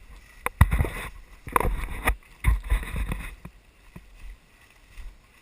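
Footsteps and rustling through brush and leaf litter on a forest trail: a few loud crunching, brushing steps about a second apart, with low thumps, then quieter.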